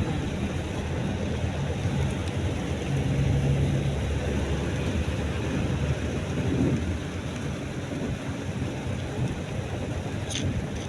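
Steady low rumble of a car driving in the rain, heard from inside the cabin, with the hiss of rain on the car and the wet road.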